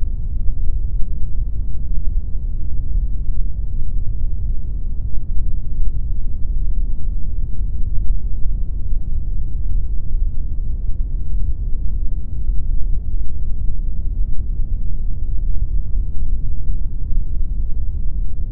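Steady pink noise: an even, unchanging rush weighted toward the low end, with nothing starting, stopping or changing.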